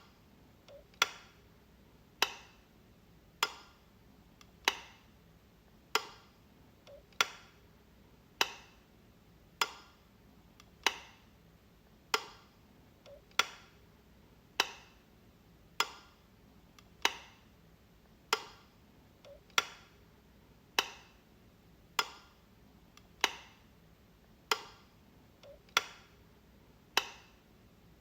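Light switch clicking, one sharp click about every 1.2 seconds in an even, unbroken series.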